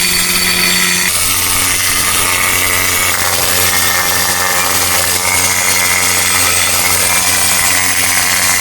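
Power tool running steadily under load, scrubbing loose rust off the inside face of a truck wheel hub; its tone shifts slightly about a second in.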